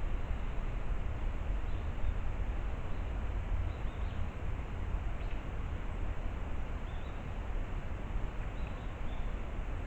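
Outdoor ambience at a ridge-top water hole: a steady low rumble with a few faint, short, high bird chirps scattered through it.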